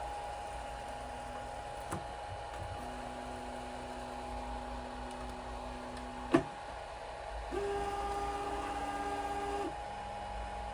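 3D printer's stepper motors whining at a steady pitch as the axes move, once for about three seconds and again, louder and higher, for about two seconds near the end, over the constant tone of the printer's fan. A single sharp click between the two moves is the loudest sound.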